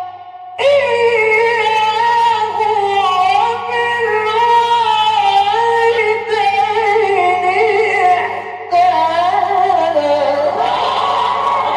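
A male Quran reciter chanting in the ornate mujawwad style: one voice holding and bending long melismatic lines after a short breath pause at the start, over the steady low hum of an old recording. Near the end, listeners' voices rise behind him.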